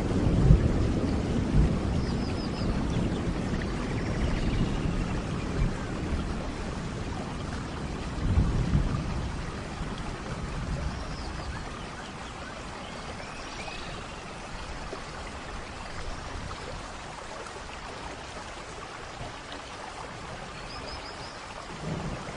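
Steady rain with rolling thunder: a low rumble at the start and another about eight seconds in, then rain alone, gradually getting quieter.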